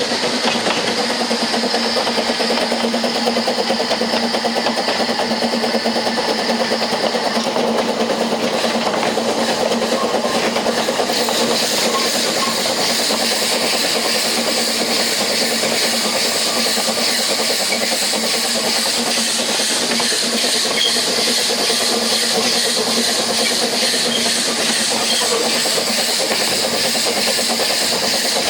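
Narrow-gauge steam train running steadily, heard from one of its carriages: a continuous rumble and rush of wheels on the rails with a steady hum underneath, turning hissier about eleven seconds in.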